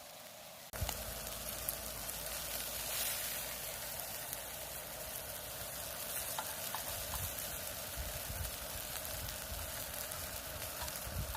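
Beef sirloin sizzling on a hot griddle, a steady frying hiss that starts abruptly under a second in, with a few small clicks.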